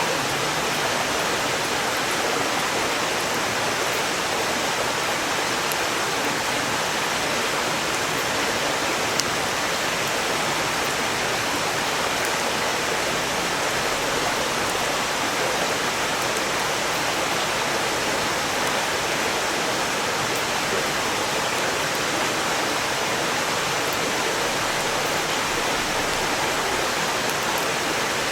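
Valley stream rushing steadily, a loud even water noise, with a few faint crackles from a wood campfire, the sharpest about nine seconds in.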